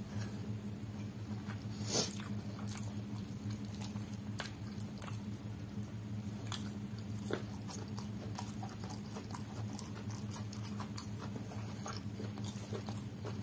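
Close-up chewing and wet mouth sounds of eating curry and rice by hand, with irregular clicks and a couple of louder smacks, and fingers squishing rice against a steel plate near the end. A steady low hum sits underneath.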